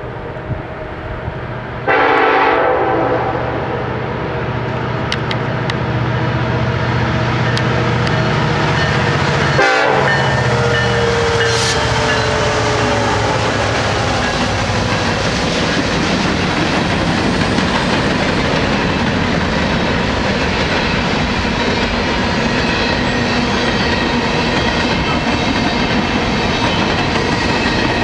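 Norfolk Southern EMD SD70ACe diesel locomotives approach and pass close by, and the lead unit's Nathan K5LLA five-chime horn sounds a loud blast about two seconds in. Their engine drone ends about ten seconds in as they go past, with a falling tone. Then a long string of empty coal hopper cars rolls by, the wheels clacking over the rail joints.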